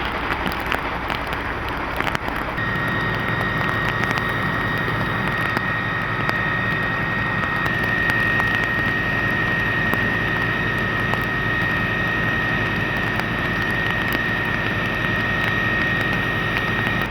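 Fire engine's engine running at a fire, a steady rushing noise. About two and a half seconds in it grows louder and a steady high whine comes in and holds.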